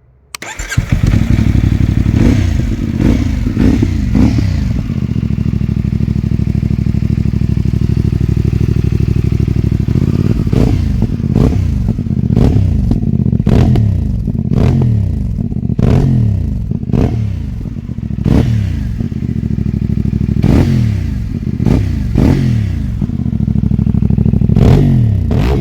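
CFMoto 450MT parallel-twin engine through a Yoshimura exhaust, idling and being blipped: quick throttle revs that rise and drop back, a few in the first seconds, then a steadier idle, then a long string of blips through the rest.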